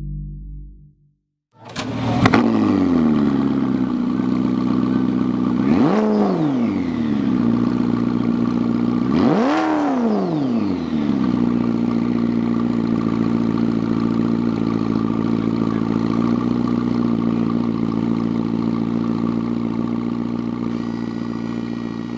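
A car engine starts with a sharp blip, is revved twice, each rev rising and falling back, then settles into a steady idle.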